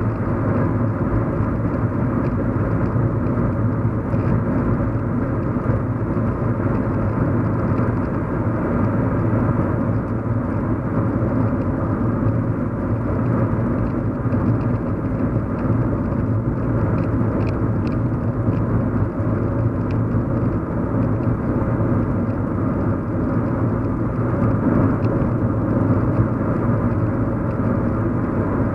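Steady low hum and road noise inside a moving car's cabin, with the engine and tyres blending into an even drone.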